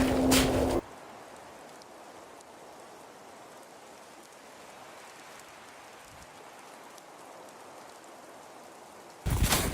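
A loud sound cuts off abruptly under a second in, leaving a faint, steady hiss that runs on until loud sound returns near the end.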